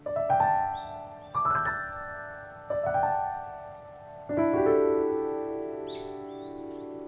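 Piano background music: gentle chords struck about every one and a half seconds, each ringing on and fading, the last one held long.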